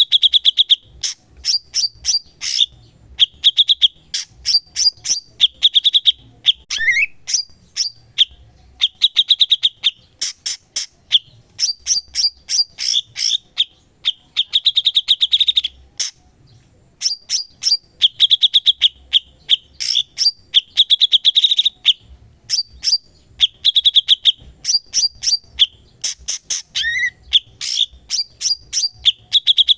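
Cucak cungkok singing vigorously: long runs of fast, high ticking notes alternating with buzzy trills, with short pauses between phrases and a swooping note twice.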